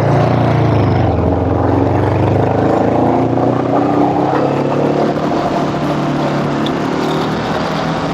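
Honda scooter engine running steadily under throttle while riding, its pitch drifting slightly, with wind and road noise.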